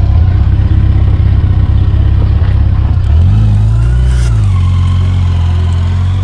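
Motorcycle engine running under way, with a pulsing low rumble at first; about three seconds in its pitch rises, then drops back a second later and holds steady.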